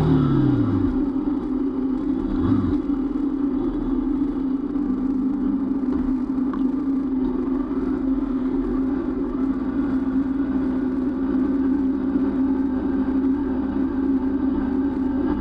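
Motorcycle engine falling in pitch as the bike slows in the first second, then idling steadily at a standstill.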